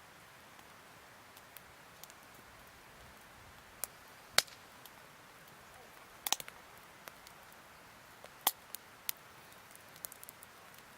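Wood campfire crackling: sharp, irregular pops every second or two over a faint steady hiss.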